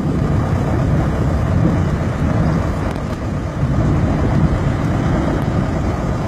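Strong wind around a fire tornado, rumbling steadily and loudly on the microphone.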